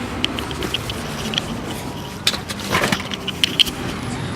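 BMW 328i E90's inline-six, its muffler cut out and replaced with a straight pipe, idling steadily. Small clicks and a couple of knocks come from handling nearby.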